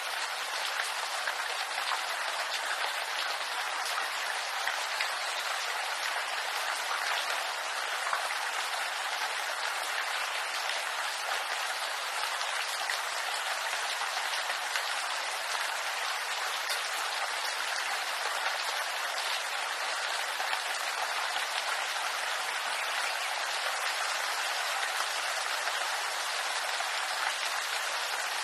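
Steady rain pattering on bamboo leaves, a dense even hiss of countless small drop ticks.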